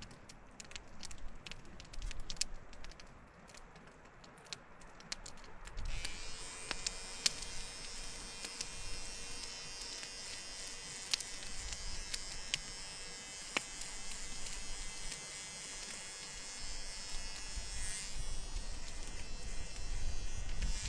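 Electric beard trimmer buzzing steadily, switched on about six seconds in and running through a trim, after a few seconds of faint scattered clicks.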